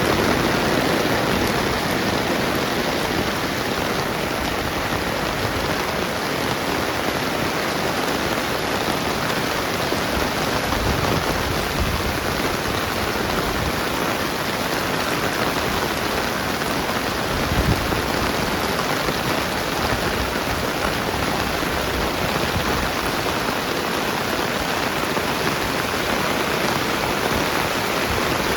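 Steady rain falling, an even hiss of drops on the ground. A brief low thump sounds about two-thirds of the way through.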